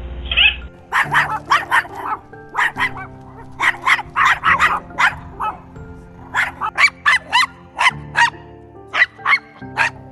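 A dog barking in quick runs of short, sharp barks, starting about a second in, over background music.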